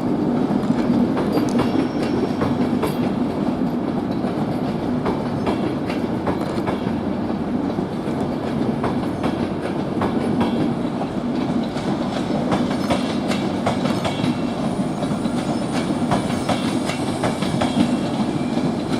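Passenger train hauled by a Class 90 electric locomotive rolling out of the station, its wheels clicking over rail joints and pointwork with a steady running noise.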